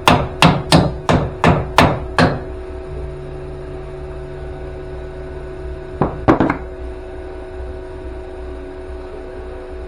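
Ball hammer striking sheet-steel car body panels: a quick run of about seven sharp blows, roughly three a second, then a pause, and a short burst of two or three more blows about six seconds in.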